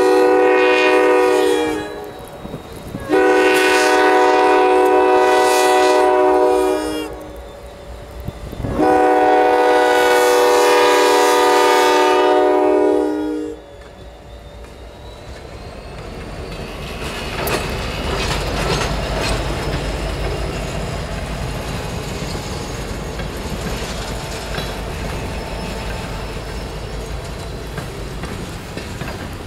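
Norfolk Southern GP59 locomotive's multi-tone air horn sounding three long blasts, the first already sounding at the start. About halfway through, the horn stops and the train passes close by: a steady rumble with the clickety-clack of wheels over rail joints, swelling over a few seconds and then holding.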